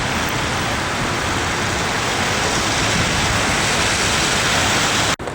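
Steady rushing noise of wind and traffic on a snowy city street, cut off abruptly near the end.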